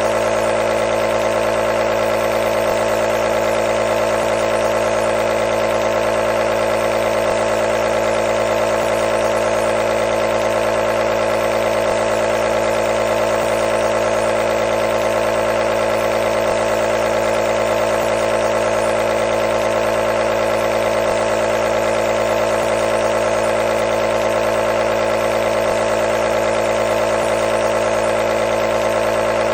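Compressor nebulizer running continuously: a steady, unchanging motor hum over a light hiss.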